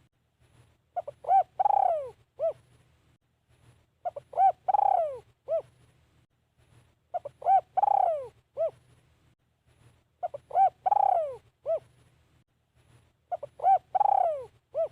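Spotted dove (decoy bird) cooing the same phrase five times, about once every three seconds. Each phrase is two short coos, a long falling coo, then one short closing coo.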